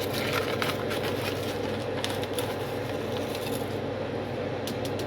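A tablespoon of dry pickling spice blend being scooped and added to a pot of brine: a few light clicks and scrapes over a steady rushing background noise.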